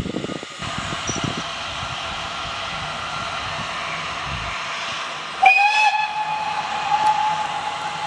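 Steam locomotive hissing steam, then its whistle sounds one long steady note starting suddenly about five and a half seconds in.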